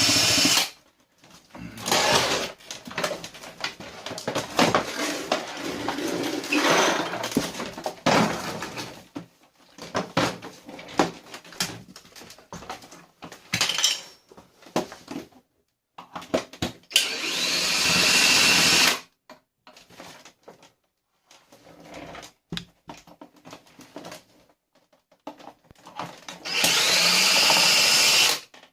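Power drill whirring in short bursts of about two seconds, three times, as screws are driven out of a vacuum cleaner being dismantled. Between the bursts, plastic parts rattle, knock and scrape as they are pulled apart.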